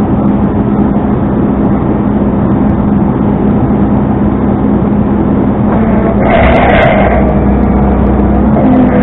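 Tow truck's engine running steadily, with a short rushing noise about six seconds in, after which the low rumble grows a little stronger.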